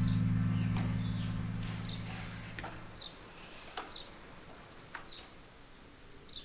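Short, high bird chirps repeating about once a second over a soft bed of sustained low music notes that fade out about three seconds in, leaving the chirps on their own.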